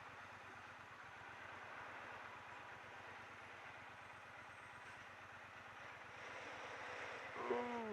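Triumph Bonneville T120 motorcycle engine running steadily under a steady rush of noise. Near the end a crow caws a few times.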